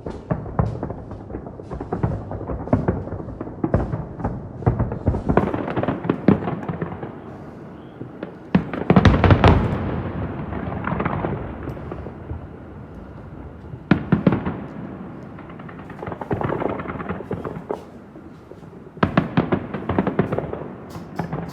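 Aerial firework shells bursting about a kilometre away, a rapid series of booms with rolling echoes. The heaviest cluster comes about nine seconds in, with further volleys near the middle and toward the end.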